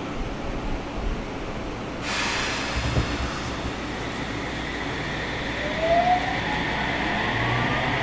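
Sendai City Subway 1000N-series train heard from inside the car as it pulls away from a station, over the steady hum of the air conditioning. A hiss starts about two seconds in. From about five and a half seconds the traction motors' whine rises in pitch as the train accelerates.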